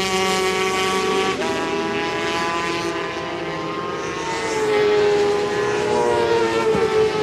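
400 cc supersport racing motorcycle engines at high revs, their note stepping down at gear changes about a second and a half in and near the end, and climbing again in between.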